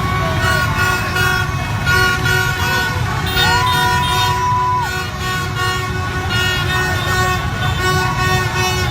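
Celebrating crowd with many horns tooting at once in overlapping held notes over a dense rumble of traffic and voices, one longer higher note sounding for about a second and a half, starting about three and a half seconds in.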